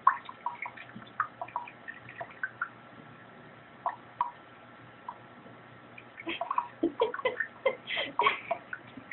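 A budgerigar bathing in water in a sink: scattered drips and small splashes at first, then a flurry of splashing from about six seconds in.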